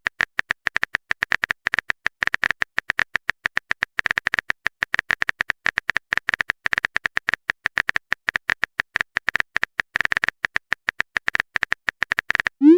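Typing sound effect: a rapid, continuous run of small clicks, about a dozen a second, as a chat message is typed out.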